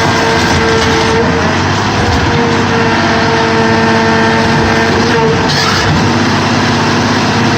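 Sierra 4200 scrap baler running: a loud, steady machine drone with a whining tone on top, from the power unit and hydraulics working.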